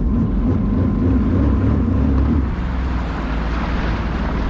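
Sea-Doo Spark Trixx jet ski's three-cylinder Rotax engine running at low speed, its pitch wavering, then easing off about halfway through, with wind buffeting the microphone.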